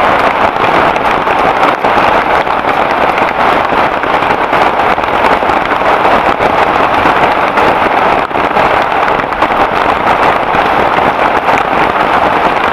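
Heavy rain falling steadily, a loud, even hiss of dense drops with no let-up.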